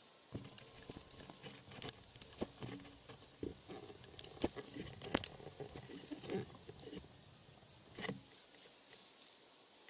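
Wood fire crackling, with irregular sharp pops and clicks over a soft hiss; the sharpest crack comes about two seconds in.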